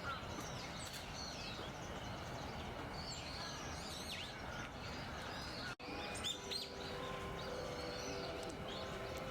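Small wild birds chirping and calling over a steady outdoor noise bed, with many short, high chirps. About two-thirds of the way through the sound cuts out for an instant, and a faint steady hum joins the background.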